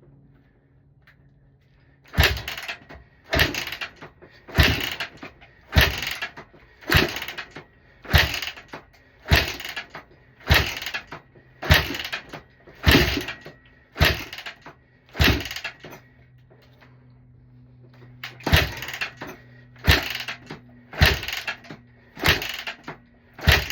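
Honda CRF150R single-cylinder four-stroke dirt bike being kick-started over and over, about one kick a second: a dozen kicks, a short pause, then five more, the engine never catching. It is the bike's hard-starting fault: it won't fire.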